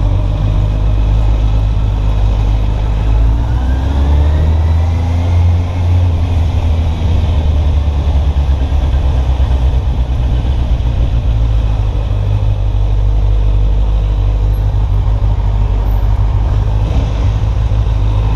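Kawasaki Z800's inline-four engine running under way, with a heavy low rumble; its pitch rises as it accelerates about four to seven seconds in, then settles to a steady run.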